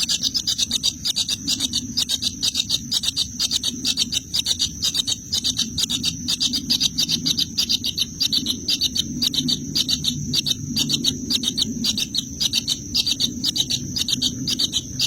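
Birds in a nest chirping in a fast, steady pulsing chatter of about ten high notes a second, without a break.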